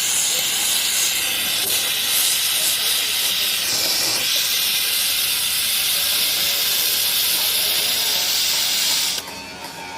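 Gas torch flame hissing steadily as it heats the seized nut, cutting off abruptly near the end.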